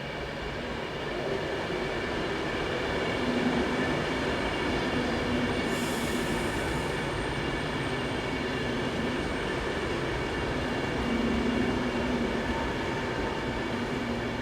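Train running on the rails, with a steady rumble and several steady whining tones above it. A short hiss comes in about six seconds in.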